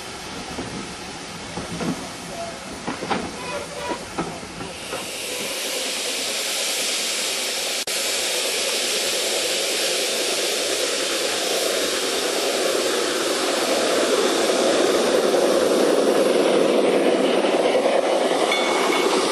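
Full-size railway coaches rolling past, their wheels knocking over the rail joints; then a steady rushing hiss that swells as an LGB garden-scale train runs close by on its track.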